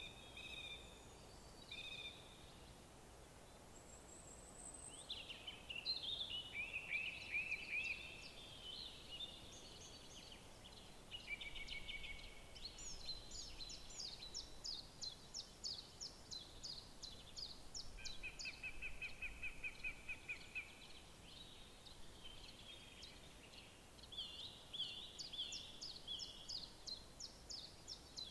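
Several songbirds singing, with whistled phrases and fast trills of rapidly repeated notes, over a faint steady background hiss.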